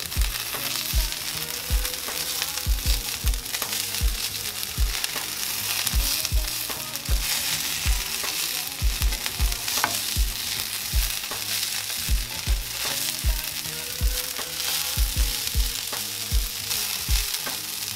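Shredded hash browns sizzling in a hot frying pan while a spatula turns them, with irregular scrapes and soft knocks of the spatula against the pan.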